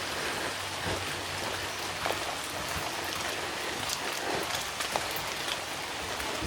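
Steady rain falling, with scattered louder single drops.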